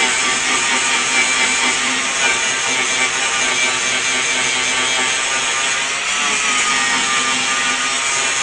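A power grinder running continuously as it grinds down welds on steel sheet-metal patch panels. Its motor whine drifts slightly in pitch as the disc is loaded against the metal, over a rough grinding hiss.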